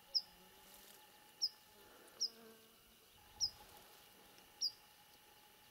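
A small bird repeating a short, high chirp about once a second, five times, over a faint steady insect whine.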